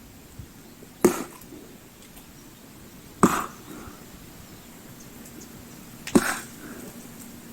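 Axe splitting firewood: three sharp strikes, a few seconds apart.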